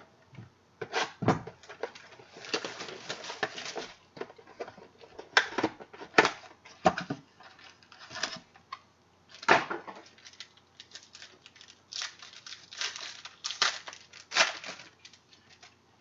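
Baseball card packs and cards being handled: wrappers tearing and crinkling in two longer stretches, between sharp clicks and taps of cards and holders.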